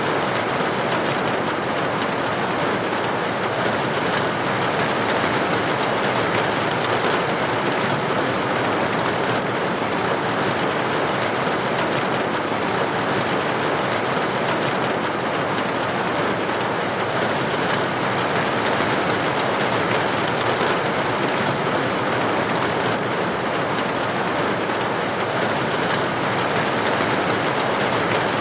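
Steady rain pattering against a window pane, an even unbroken hiss of drops.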